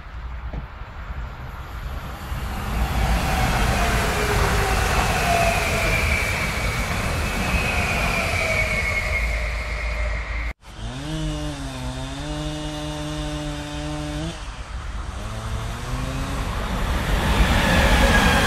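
Railway line noise: the rumble and faint high rail squeal of trains on the line. This breaks off sharply, and then a long steady pitched tone sounds, followed by a shorter one. Near the end come the rising noise and falling whine of an approaching freight train.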